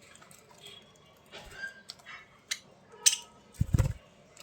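Budgerigars moving about in a cage: scattered clicks and light rattles with a brief chirp, then a louder thump with a rattle near the end.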